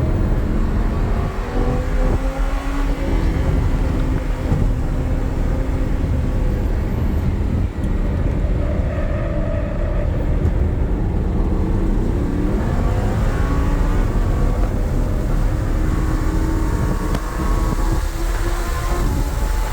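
Lamborghini Huracán's V10 engine driven hard on a race track, its pitch climbing and falling again and again through gear changes over a steady low rumble.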